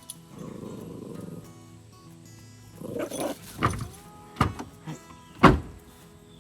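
Background music with a pet animal's short, loud cries or growls, four or five of them in the second half, the last the loudest.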